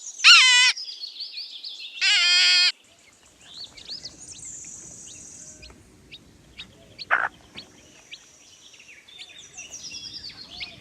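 A rabbit squealing: two short, loud, wavering high-pitched cries about two seconds apart. Faint bird chirps follow, with one sharp call about seven seconds in.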